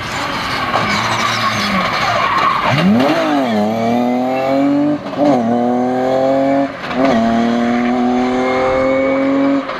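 Rally car engine at high revs: after a few seconds of skidding tyre noise, the revs dip and climb again about three seconds in, then hold high and steady, broken by two brief dips about five and seven seconds in.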